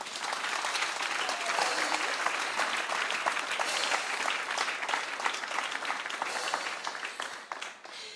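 Congregation applauding, starting all at once and dying away near the end.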